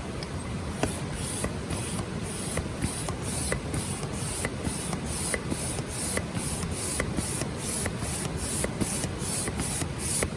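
Rhythmic rasping strokes, about two or three a second and starting about a second in, over a steady hiss.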